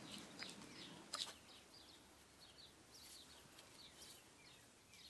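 Near silence: faint outdoor ambience with small birds chirping now and then, and a couple of soft clicks about a second in.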